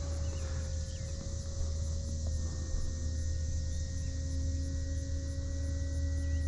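Electric motor and propeller whine of an E-flite Carbon Z Cessna 150T RC airplane in flight: a steady tone that shifts slightly in pitch a couple of times, over a low rumble. Faint short chirps sound now and then.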